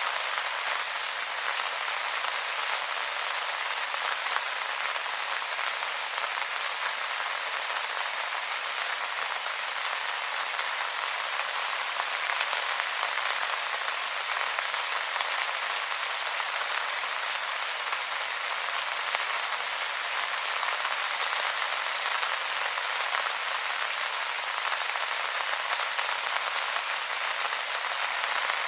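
Steady rain falling on wet leaves, a constant hiss of fine drops with no low rumble and no let-up.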